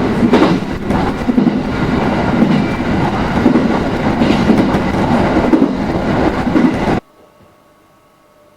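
Train running on rails, loud and continuous. It starts abruptly and cuts off sharply about seven seconds in.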